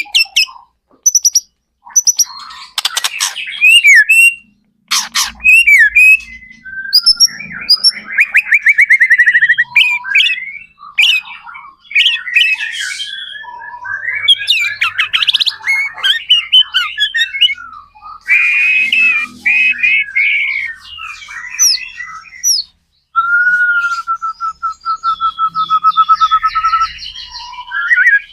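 White-rumped shama singing without pause: a varied run of loud whistled phrases, fast trills and harsh chattering notes, ending with a long, steady, rattling note held for about four seconds.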